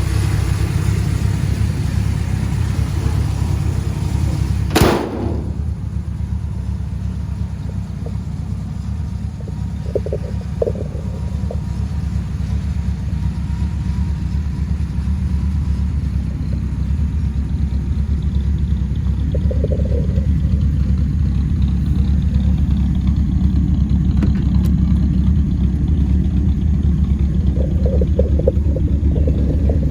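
1983 Dodge D150 Miser pickup's engine running with a steady low drone. There is one sharp knock about five seconds in.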